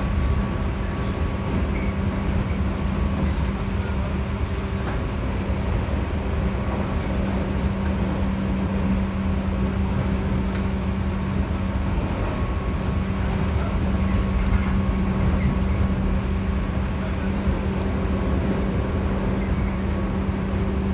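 Interior running noise of a 211 series electric multiple-unit train: a steady low rumble with a constant electrical hum and a few faint clicks, heard from inside the passenger car.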